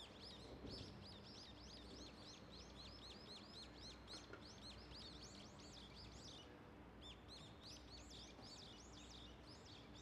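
Faint, rapid songbird chirping: many short, quick calls each second, pausing briefly around two-thirds of the way through, over a faint steady low hum.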